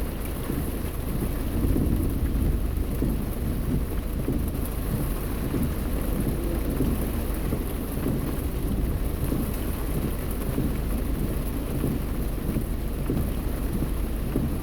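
Heavy rain beating on a car, heard from inside the cabin, over a steady low rumble of the car driving.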